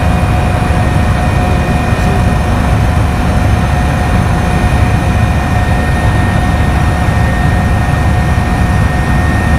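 Aircraft engine running steadily: a constant low rumble with a steady droning tone over it.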